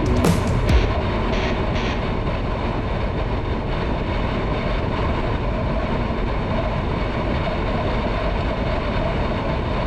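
Steady rush of wind and road noise from a motorcycle riding at highway speed.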